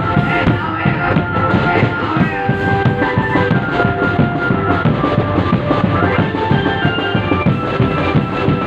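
Drum band playing: dense, fast drumming under a held melody line.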